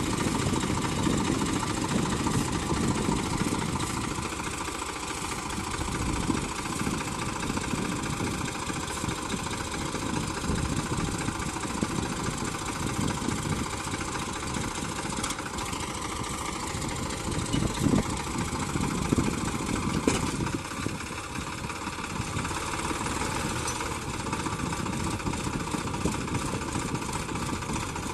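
Diesel tractor engine running steadily, with a few brief louder surges about 18 to 20 seconds in.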